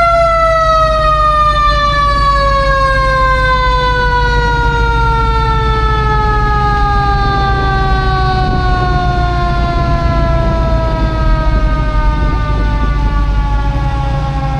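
A siren winding down in one long, slowly falling wail, its pitch sinking steadily as it coasts, over a steady low engine rumble.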